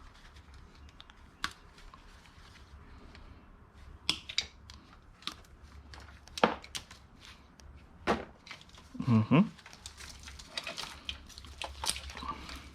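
Plastic chargers, cables and small electronic items being handled and sorted: scattered clicks and knocks as pieces are picked up and set down, with some rustling of cords.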